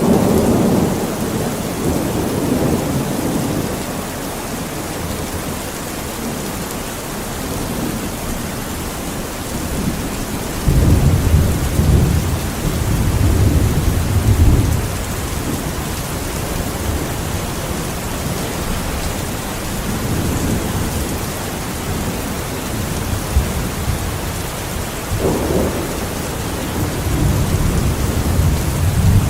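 Steady heavy rain with low rolls of thunder rumbling several times, the biggest roll about eleven to fifteen seconds in.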